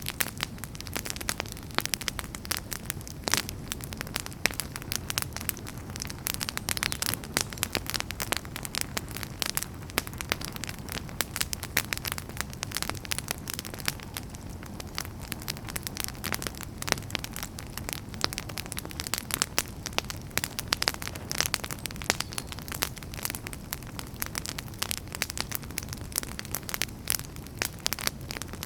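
Wood fire burning in a fireplace, crackling and popping with many quick, irregular snaps over a steady low hiss of flames.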